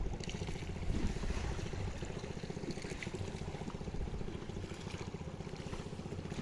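Small boat motor running steadily with a rapid, even pulse.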